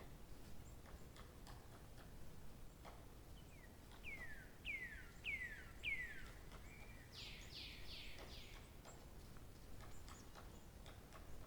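Birdsong over a low steady background: a bird sings four clear downslurred whistles in a row about four seconds in, then a quick run of four falling notes just after the middle.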